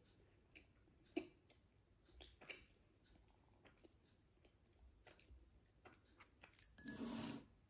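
Faint closed-mouth chewing of a piece of Snickers bar with lemon mousse, with small wet mouth clicks and one sharper click about a second in. A brief louder rustling noise comes near the end.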